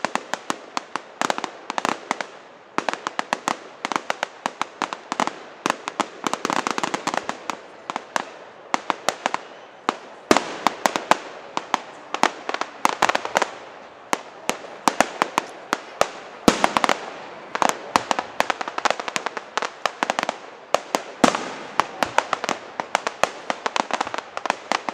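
Fireworks display: a continuous barrage of rapid sharp bangs and crackles, many each second, with louder clusters every few seconds.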